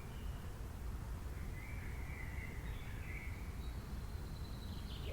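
Wild birds calling: a few short, faint whistled calls over a steady low background rumble.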